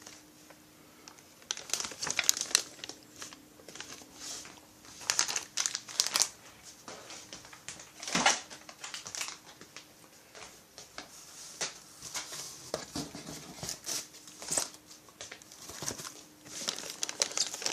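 Packaging crinkling and rustling in irregular bursts as parts are unwrapped by hand.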